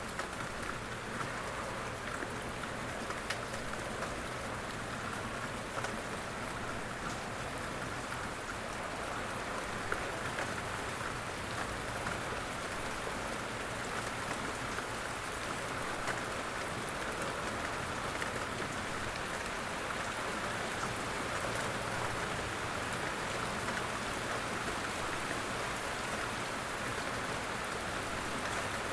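Steady rain falling, an even hiss with a few single louder drops now and then.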